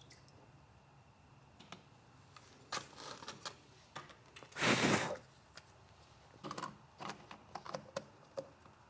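Paint-mixing cups and a spray gun's paint cup being handled: scattered light clicks and knocks, with one louder rustling rush lasting under a second about five seconds in.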